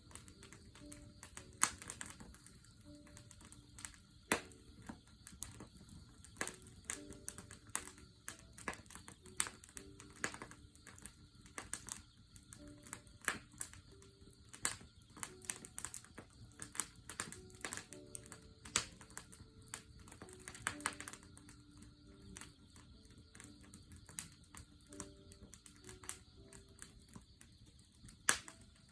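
Wood campfire crackling, with irregular sharp snaps and pops, over a faint steady high trill of grass insects.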